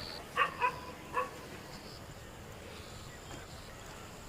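A dog yipping: three short, high yelps in the first second and a half, then only a faint steady hiss.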